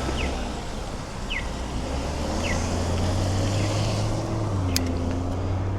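Audible pedestrian crossing signal chirping: short falling chirps about once a second, over the low rumble of idling traffic. Two sharp clicks come near the end.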